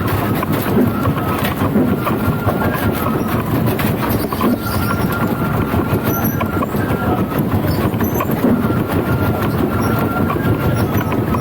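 Wooden wheels of a danjiri festival float rumbling and clattering steadily as it is pulled along the road, with a faint intermittent squeal.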